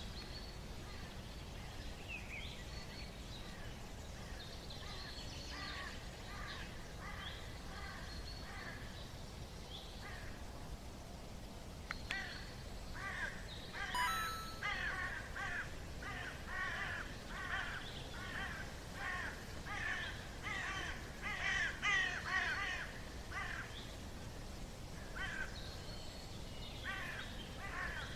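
Forest birds calling: scattered whistled notes at first, then from about halfway a bird repeats a harsh call a little more than once a second for around ten seconds, over a steady low background rumble.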